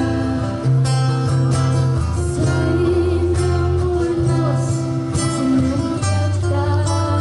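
Street buskers' live music: a strummed guitar over steady, changing bass notes, with a sung melody line.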